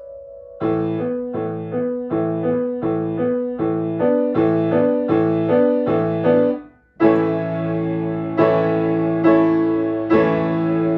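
Solo piano playing. After a held note, bass-and-chord strokes repeat about two a second; after a short break, loud chords land about a second apart and ring on.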